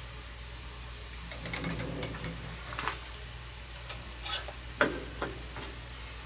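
Metal lathe running with a steady low hum while it takes a cut, with scattered clicks and short scrapes of metal over it, the sharpest one about five seconds in.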